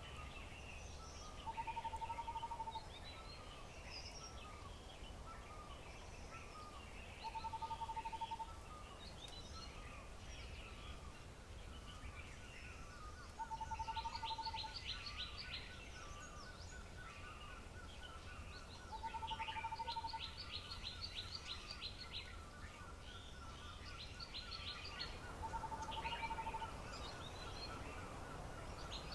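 Several birds calling: a low, pulsed trill of about a second repeats every six seconds or so, over many short high chirps, with quick high rattling calls joining in near the middle and end.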